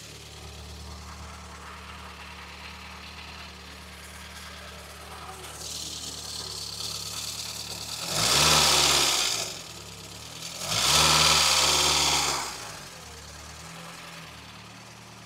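Freshly rebuilt MK2 Golf GTI 16-valve four-cylinder engine idling steadily on its first run, then revved up twice about eight and eleven seconds in, each time rising and falling back to idle.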